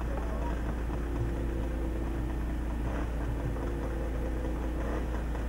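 Velorex three-wheeler's small two-stroke engine idling steadily, with a constant low hum.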